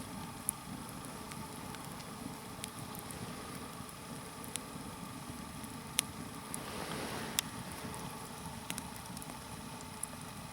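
Log fire of damp green logs crackling over a low steady rush, with a sharp pop every second or two. A soft rushing noise swells briefly a little past the middle.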